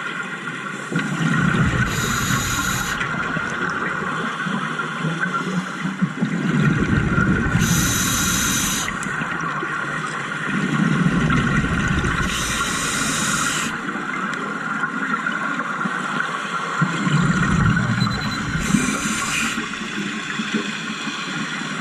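A scuba diver breathing through a regulator underwater: four breaths about five to six seconds apart, each a short high hiss of air alongside a low bubbling rumble of exhaled bubbles.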